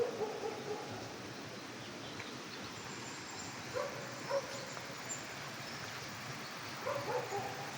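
Short animal calls in three brief bouts, at the start, about four seconds in, and near the end, over a steady hiss.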